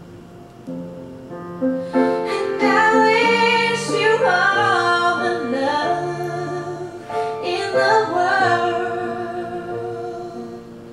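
A woman singing a slow ballad over soft piano. The piano plays alone at first, the voice comes in about two seconds in with long held, wavering notes, and it eases off near the end.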